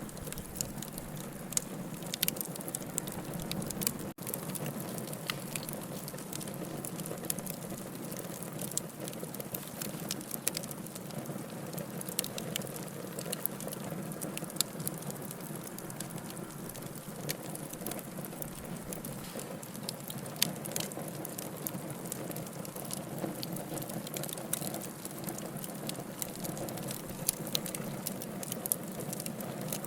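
Wood fire in a fireplace crackling, with frequent sharp pops and snaps over a steady hiss. The sound cuts out for an instant about four seconds in.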